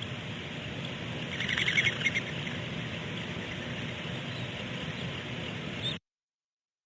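A short, rapid chittering bird call, heard once over a steady low background rumble. All sound cuts off suddenly about six seconds in.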